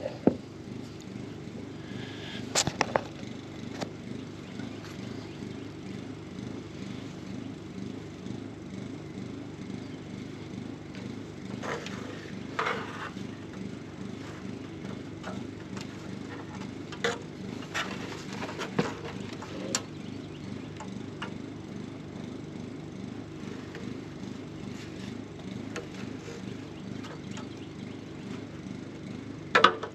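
Honeybees buzzing in a steady, continuous hum around an opened wild hive. Now and then there are short clicks and knocks from the comb and frames being handled, a few of them close together in the middle.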